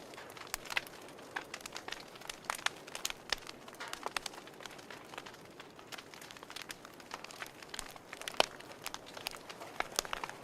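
Campfire crackling: irregular sharp pops and snaps over a soft hiss, with one louder pop about eight seconds in.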